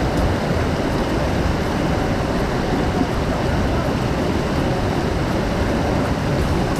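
Steady, loud rush of water with no breaks.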